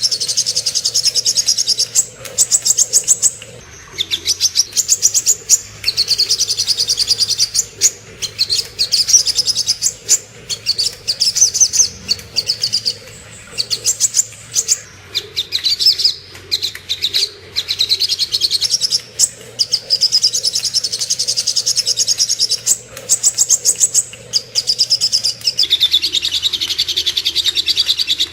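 Sogok ontong (little spiderhunter) singing: rapid, high chattering trills in phrases of a second or two, separated by short pauses, over a faint low hum.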